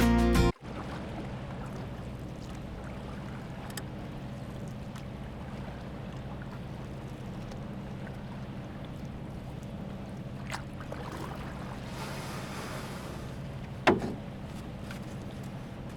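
Steady low hum of a boat's engine, with a single sharp knock near the end.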